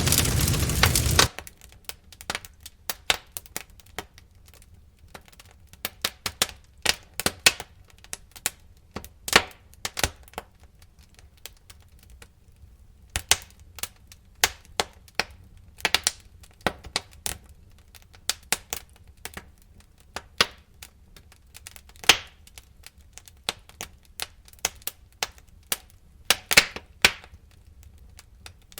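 Campfire crackling: irregular sharp pops and snaps of burning wood, some close together, some a second or more apart. For about the first second a loud steady hiss covers it, then cuts off suddenly.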